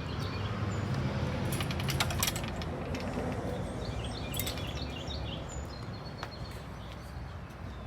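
Outdoor background noise: a steady low rumble, with a few sharp clicks about two seconds in and faint high chirps in the middle.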